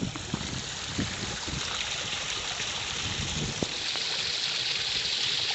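Running water hissing steadily and growing gradually louder, with a few soft knocks scattered through the first few seconds.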